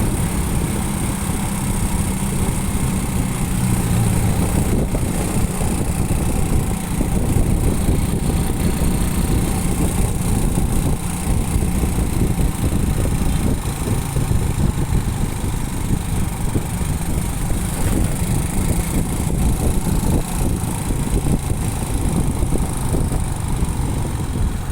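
Motorcycle engine running steadily while being ridden, with dense road and wind noise.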